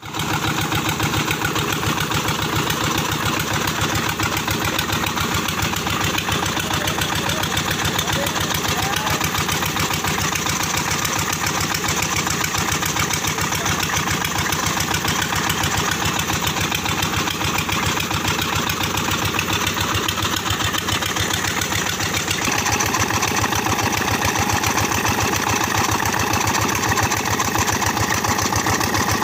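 A 25 hp Petter stationary diesel engine running steadily with a rapid, even beat while it drives an atta chakki flour mill. About three-quarters of the way in, the sound takes on a brighter, higher tone.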